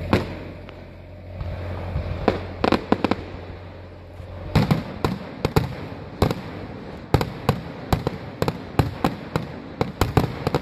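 Aerial firework shells bursting overhead: a few separate bangs in the first few seconds, then a rapid run of bangs, about two or three a second, from about four and a half seconds in.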